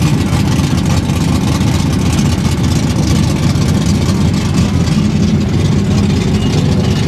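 A loud engine running steadily, a dense low rumble with no change in pitch.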